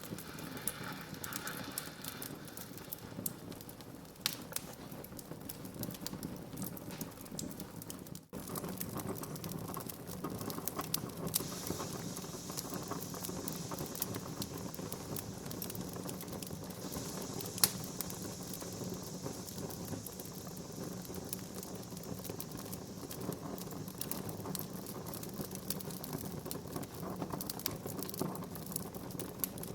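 Wood fire crackling: irregular sharp pops and snaps over a steady hiss of burning logs. A single louder pop comes a little past halfway, and the sound drops out for an instant about 8 seconds in.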